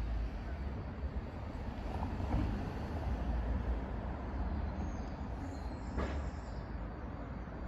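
Transport for Wales Class 197 diesel multiple unit departing some way off, heard as a steady low rumble.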